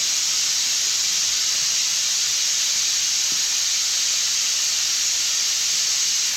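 Steady hiss of compressed air driving a pneumatic vacuum/pressure fluid unit as it pushes oil into an engine through the oil filter fitting, pre-lubing the engine before its first start.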